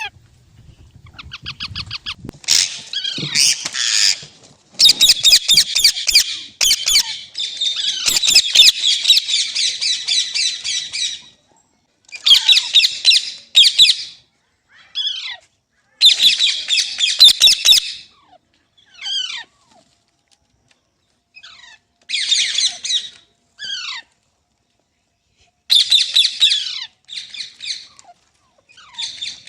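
Parrot screeching in loud harsh bursts of one to a few seconds, several in a row, with short downward-sliding calls in between.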